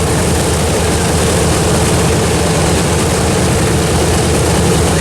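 Boeing B-17 bomber's radial piston engines running steadily at idle just after start-up, a deep, even, multi-engine drone with propellers turning.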